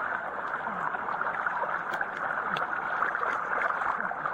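Heavy rain and rushing floodwater, a steady hiss heard through a police body camera's microphone, with a few faint ticks.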